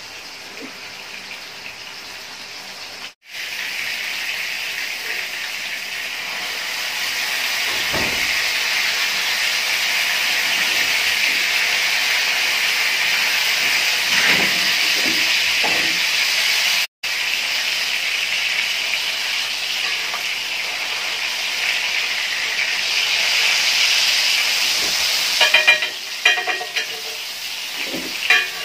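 Beef-mince chapli kababs frying in oil on a flat iron griddle, a steady loud sizzle that cuts out briefly twice. Near the end metal spatulas scrape and clink on the griddle a few times.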